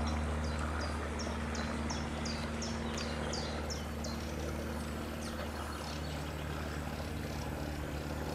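A songbird repeating a short, high, falling note about three times a second for the first four seconds, then fainter calls. Behind it run a steady low hum and an even rushing noise.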